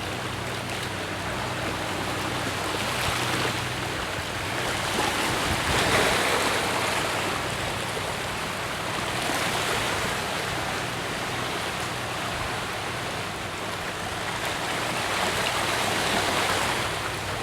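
Steady rushing water noise that swells and eases every few seconds, over a low steady motor hum, as from a motorboat moving on water.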